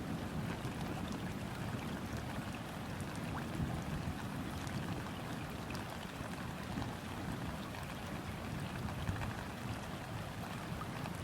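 Steady rain falling on a river, an even hiss with faint scattered drop ticks on the water.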